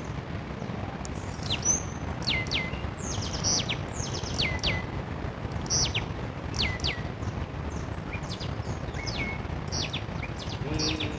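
Birds calling repeatedly: sharp chirps that sweep down in pitch, often in quick pairs, about every second, over a steady low rumble.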